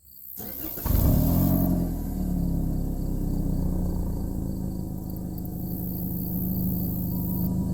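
A 2023 Toyota Corolla LE's four-cylinder engine starting through its exhaust: a brief crank, a flare of revs about a second in as it catches, then settling into a steady idle.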